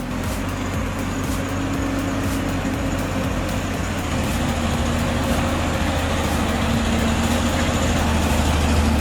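Heavy logging truck's diesel engine running hard under load, a steady low drone that grows slowly louder.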